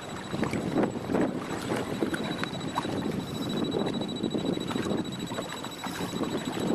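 Strong wind buffeting the microphone over choppy water, with irregular splashes and knocks of waves.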